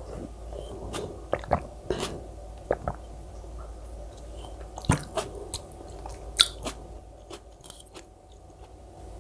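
Close-miked mukbang eating sounds: chewing and biting with irregular sharp crunches and wet clicks. The loudest crunches come about five and six and a half seconds in.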